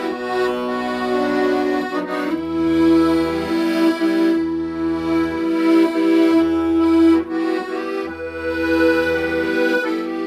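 Accordion playing a slow melody over sustained chords, with low bass notes changing about every two seconds.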